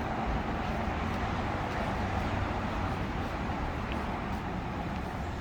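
Steady city street ambience: a continuous wash of road traffic noise.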